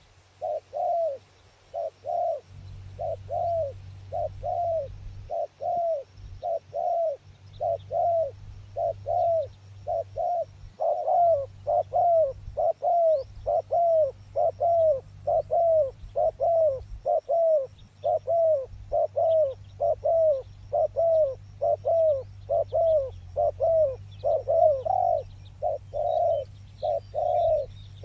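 A dove cooing over and over in a steady, fast rhythm of short arched notes, about two a second, without a break. Beneath it a low wind rumble on the microphone.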